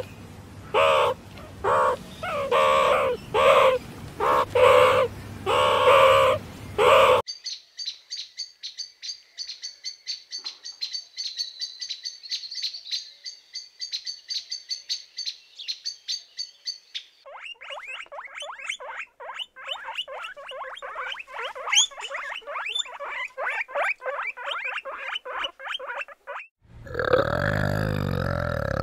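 A run of animal calls. A bird gives rapid high trilling, then a lower, fast, even series of calls. Before that come about seven seconds of loud rhythmic pitched pulses, and near the end there is a low grunt.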